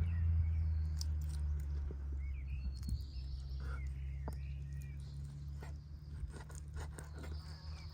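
Outdoor ambience with birds chirping in short calls over a steady low hum, with scattered light clicks and scrapes.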